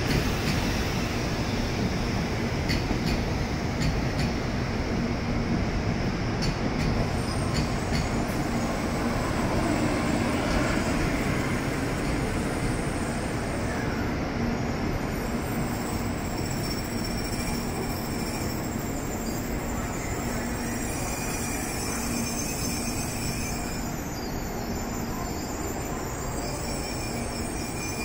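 N700A Shinkansen train pulling into the platform and slowing to a stop, its running noise easing off steadily. A few sharp clicks come in the first several seconds, and thin high squeals rise as it brakes in the second half.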